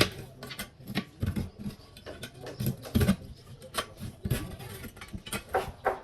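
Irregular light clicks, knocks and scrapes of tools and small parts being handled during a repair.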